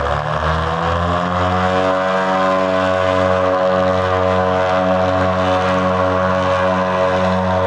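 Propeller aircraft engine rising in pitch over the first couple of seconds, then running at a steady pitch with a slow, even throb.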